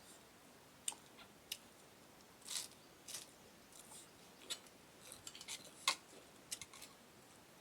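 Faint close-up eating sounds: irregular mouth clicks and short crisp smacks of someone chewing spicy green papaya salad, about a dozen scattered over the stretch.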